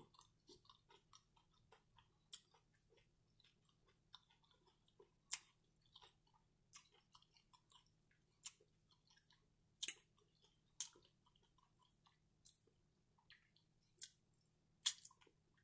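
Faint chewing and mouth sounds of someone eating cheesy shrimp nachos: short sharp wet clicks and smacks at an irregular pace of about one a second, with fingers being licked near the end.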